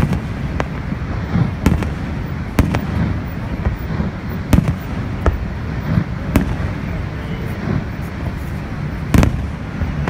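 Aerial firework shells bursting: sharp bangs at irregular intervals, roughly one every second or so, the loudest about nine seconds in, over a steady low rush.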